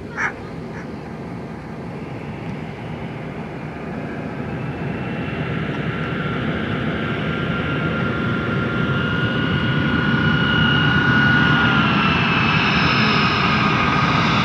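Boeing 757-200 jet airliner approaching to land, its engine whine and rushing noise growing steadily louder as it closes in. A brief high chirp sounds just after the start.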